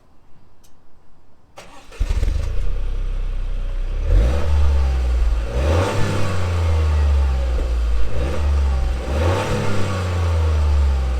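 Toyota GR Yaris's turbocharged three-cylinder engine starting up about two seconds in, then running with a deep rumble and revved twice.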